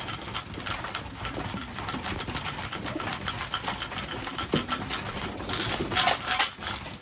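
Pigeons feeding: many quick clicks of beaks pecking at grain, with cooing, and a louder rustling burst about six seconds in.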